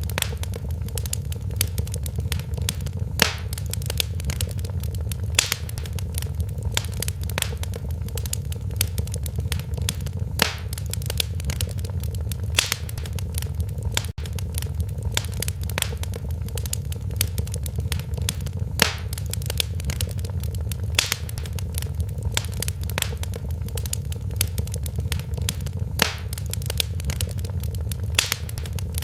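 Wood fire crackling in a fireplace: a steady low rumble of burning with a dense scatter of small snaps and a louder pop every couple of seconds.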